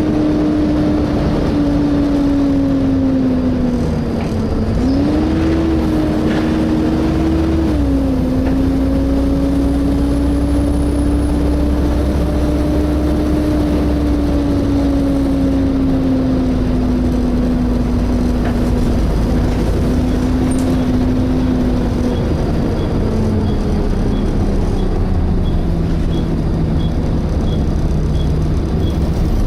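Volvo B7TL double-decker bus's engine cooling fan whining as heard inside the saloon, over the low running of the diesel engine. The whine's pitch jumps up about five seconds in, falls back about three seconds later, and slides lower over the last several seconds.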